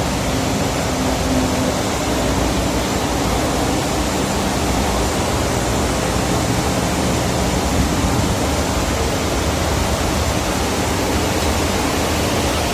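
Steady, loud, even machinery noise of a ship's engine room, with a low hum running under it.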